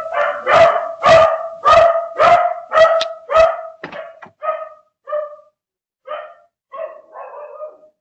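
A dog barking repeatedly, about two barks a second at first, loud, then quieter and further apart over the last few seconds.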